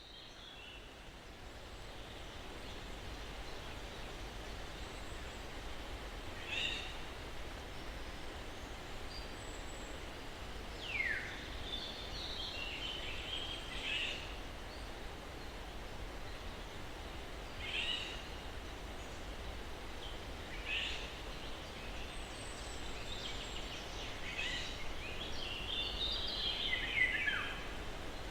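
Steady breeze through pine trees, fading in over the first couple of seconds, with birds calling now and then: short chirps and a few falling notes, the longest a falling phrase near the end.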